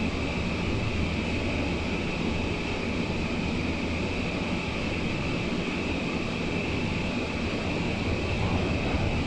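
Interior running noise of a BART Oakland Airport line car moving along the elevated guideway: a steady rumble with a constant high whine, holding an even speed.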